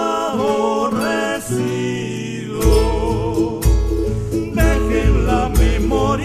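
Argentine folk song: voices singing a sustained, gliding melody with vibrato over guitar, with deep bass notes coming in partway through.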